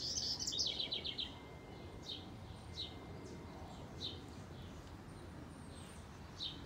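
Songbirds singing: a rapid high twittering phrase in the first second, then a few short, high single chirps spaced a second or more apart, over faint steady background noise.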